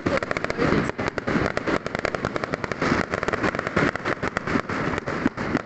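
Many fireworks going off at once: a dense, irregular run of bangs and crackling pops with no break.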